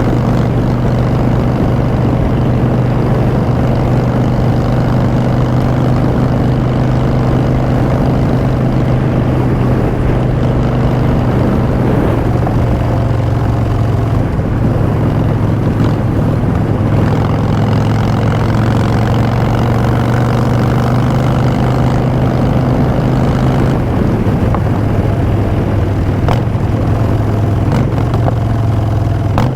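Harley-Davidson Street Bob's Twin Cam V-twin running through Vance & Hines Short Shots exhaust while cruising, a loud steady exhaust note that shifts a little in pitch a few times with the throttle.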